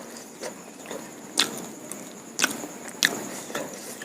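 Eating sounds from a person's mouth: a few short, sharp smacking clicks, the three loudest about a second apart.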